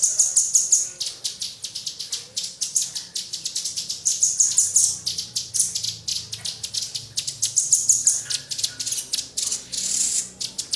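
Small bird giving a rapid run of sharp, high-pitched chip notes, coming in quick pulsing bursts.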